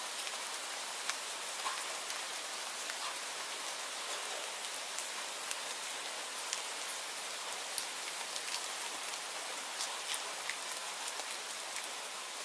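Steady rainfall: a constant hiss with many individual drops ticking sharply on a surface throughout.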